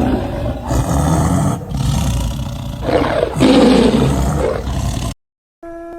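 Big cat roaring: a run of rough, loud roars that cuts off about five seconds in. A steady held tone begins just before the end.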